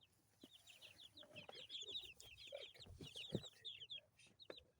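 A group of two-week-old chicks peeping, many quick, high, falling peeps overlapping one another, with a few soft knocks mixed in.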